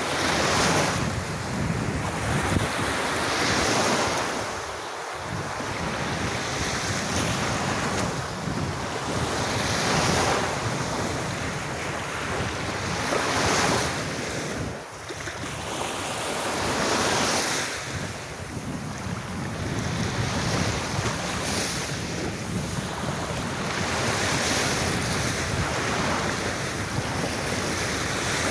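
Sea waves breaking and washing onto a beach, the surf swelling and easing every few seconds, with wind rumbling on the microphone.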